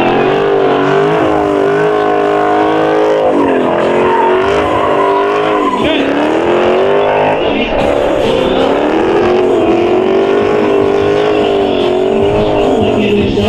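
Muscle car engine held at high revs, its pitch wavering up and down with brief dips and climbs back, as in a car-meet burnout or donut.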